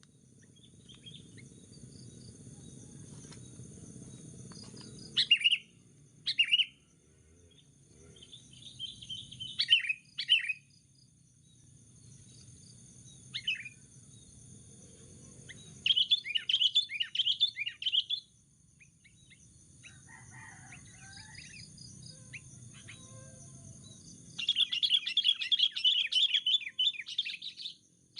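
Sooty-headed bulbuls giving bursts of chattering calls, several short ones and a longer run of about three seconds near the end, with a faint low rumble between them.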